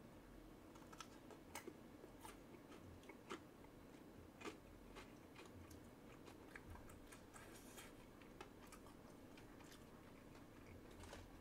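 Faint chewing of a pan-fried dumpling, with scattered small, irregular clicks from the mouth.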